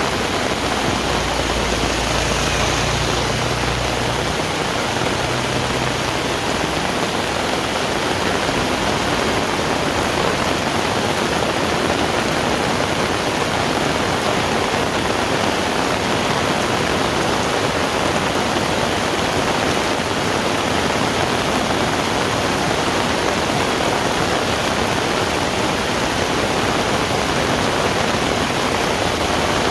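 Heavy rain falling steadily, a dense even hiss, with a low rumble during the first few seconds.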